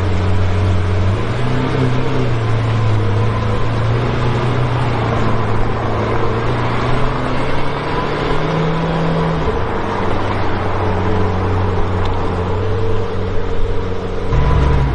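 A car engine running steadily, its low pitch stepping up about a second in, dropping again near ten seconds, and dropping further just before the end.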